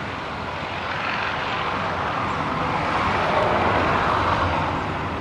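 Light propeller airplane's piston engine running at power, swelling to its loudest about three and a half seconds in and then easing, as the plane goes past.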